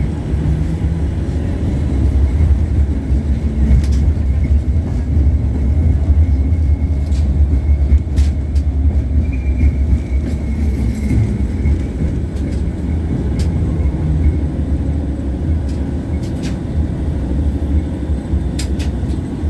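Inside an LVS-86K articulated tram running along the line: a steady low rumble of wheels on rails and running gear, with scattered short clicks and a faint high whine in the middle.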